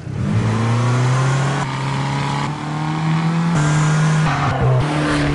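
Fiat 500 Abarth's turbocharged four-cylinder engine revving loudly through its exhaust, its note held steady and stepping up in pitch a few times.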